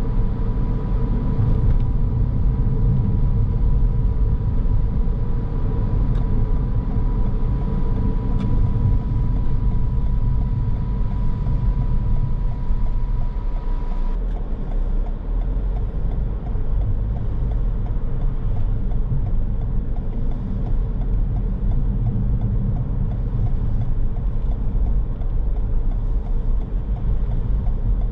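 A car driving, with steady road and engine noise heard from inside the cabin. A thin steady high tone stops abruptly about halfway through.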